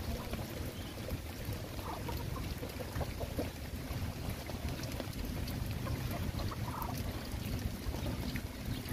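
Steady rain falling, with wind rumbling on the microphone and scattered faint clicks.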